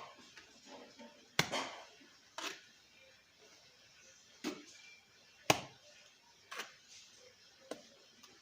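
A series of six sharp knocks, about one a second, the second and fourth the loudest.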